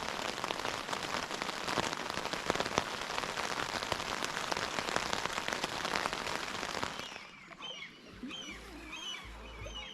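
Dense, steady crackling patter of water for about seven seconds. Then it drops away and small birds chirp with short, repeated, falling notes.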